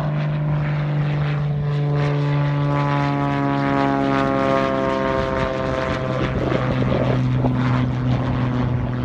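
Beech Bonanza's flat-six piston engine and propeller running at full takeoff power: a loud, steady drone whose pitch drifts slightly lower around the middle.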